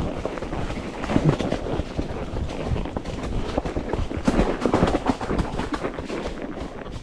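A ridden horse's hoof steps: irregular knocks mixed with rustling.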